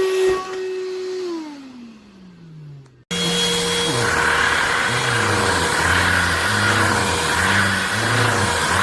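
Cordless handheld vacuum motor running with a steady whine, then switched off and spinning down, its pitch falling over about two seconds. About three seconds in it starts again abruptly and runs steadily, a rushing hiss over a wavering low hum.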